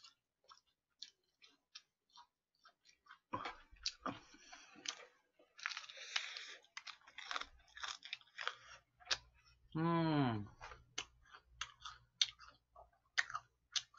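Close-up chewing of fried chicken: a steady run of short, crackly crunches and wet mouth clicks. About ten seconds in, a brief falling pitched sound cuts across the chewing.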